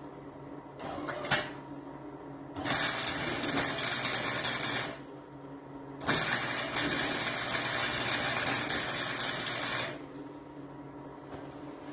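Shop work noise: a few knocks about a second in, then two long bursts of harsh, even hissing noise, the first about two seconds long and the second about four, over a steady low hum.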